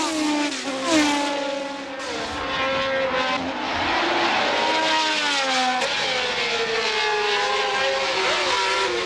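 1970s Formula 1 race car engines running at high revs, several at once, their pitch climbing and dropping as the cars accelerate, shift gear and pass.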